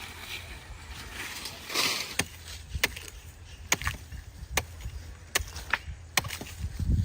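A blade chopping into wood by hand: a run of sharp strikes, roughly one a second, starting about two seconds in.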